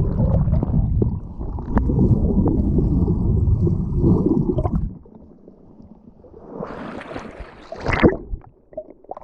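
Wind buffeting the microphone, a heavy, irregular low rumble that drops away about five seconds in; a shorter, brighter rush of wind comes near the end.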